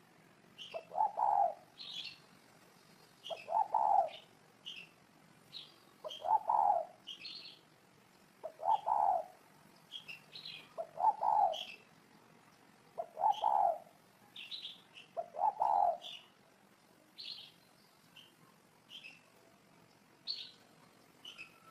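Spotted dove cooing, a low coo about every two seconds, with smaller birds chirping higher alongside. The coos stop about three-quarters of the way through while the chirping continues.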